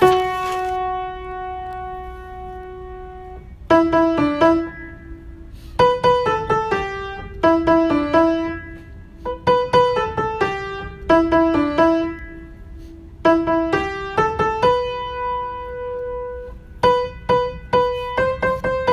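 Piano music: short runs of notes in phrases, with a long held note near the start and another in the second half.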